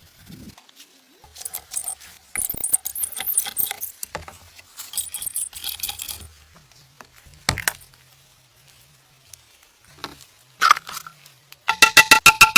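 Work sounds of objects being handled: bursts of rustling or scraping, a single sharp knock about halfway through, then a quick run of ringing taps near the end.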